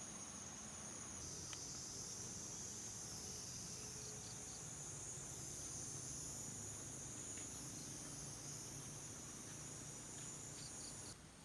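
Cicadas singing: a steady, high-pitched shrill drone that swells and dips slowly, changing abruptly near the end.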